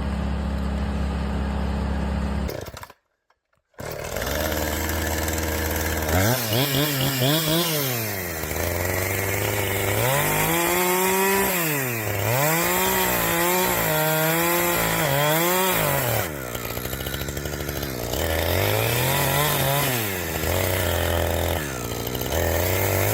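Chainsaw engine revving up and down again and again, its pitch rising and falling with each squeeze and release of the throttle. It follows a steady engine drone that cuts off to silence for about a second, about three seconds in.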